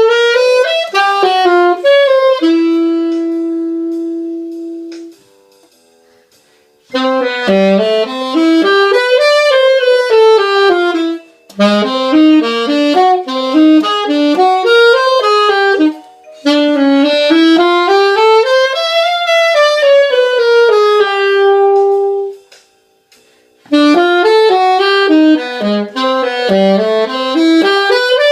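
Unaccompanied saxophone playing a jazz melody: quick runs of notes in phrases broken by short pauses, with one long held note that fades away a few seconds in.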